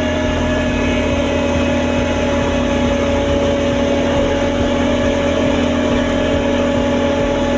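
Heavy diesel engine of road-paving machinery running steadily at a constant speed, a low rumble with a held, even hum.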